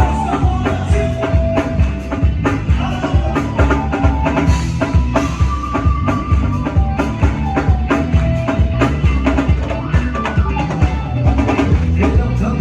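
Live band music with a full drum kit, kick and snare driving a steady beat under held melodic notes, with no singing.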